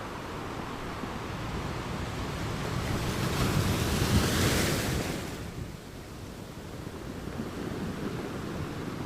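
Ocean waves on a shore: a steady rush of surf with one wave building and breaking about four seconds in, then falling back, with some wind on the microphone.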